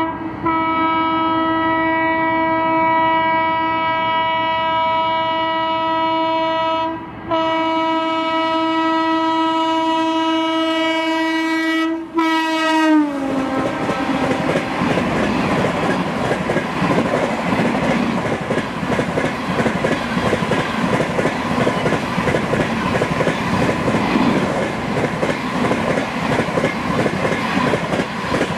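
Electric locomotive's horn held in long blasts with short breaks, dropping sharply in pitch as the locomotive passes. Then the rush and wheel clatter of LHB passenger coaches going by at high speed.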